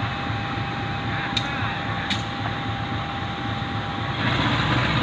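Steady rumbling noise of a passing train, with a faint steady tone that stops about four seconds in and two short clicks partway through.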